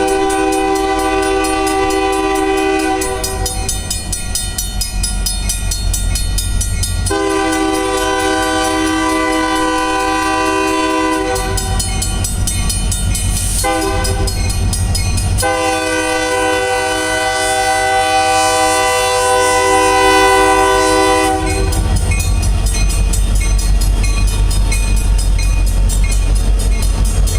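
Union Pacific locomotive air horn sounding the long, long, short, long grade-crossing signal, each blast a chord of several steady tones, over the low rumble of the train. After the last long blast ends, about three quarters of the way in, the rumble of the passing train grows louder.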